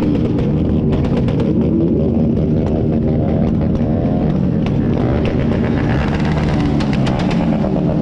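Several motorcycle engines revving hard together, with rapid stuttering cut-outs as they bounce off the rev limiter.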